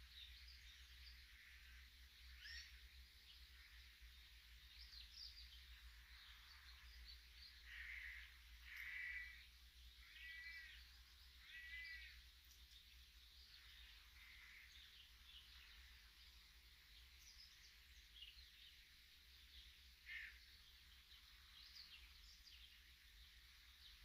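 Faint birdsong: scattered small birds chirping, with one bird giving four short, harsher calls in a row about eight to twelve seconds in, over a steady low hum.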